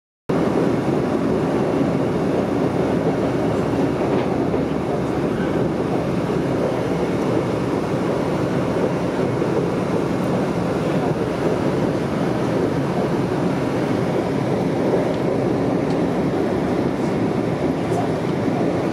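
Express passenger train running at speed, heard from inside the carriage: a steady, even running noise of wheels on rail and cabin hum.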